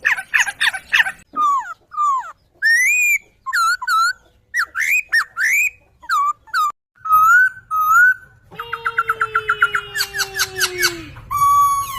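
Songbird singing loud, varied whistled phrases of rising and falling glides, then about two-thirds of the way in a fast run of repeated notes over a long, slowly falling tone.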